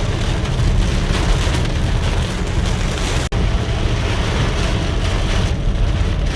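Severe thunderstorm wind gusts and rain in a steady, heavy roar, with deep rumbling buffeting of wind on the microphone. It breaks off for an instant a little past halfway.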